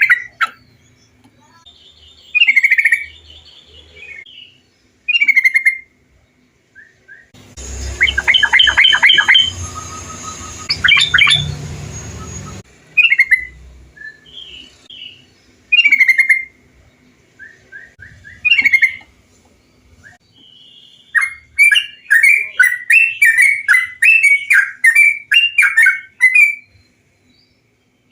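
Yellow-vented bulbul (trucukan) song: short, bubbly whistled phrases repeated every few seconds. In the middle, a run of phrases comes over a steady hiss, and near the end there is a quick burst of many chattering notes.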